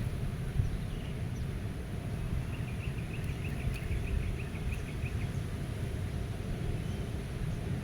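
Steady low rumble of wind, with a small bird singing a quick trill of about fifteen evenly repeated high notes from about 2.5 s to 5 s in.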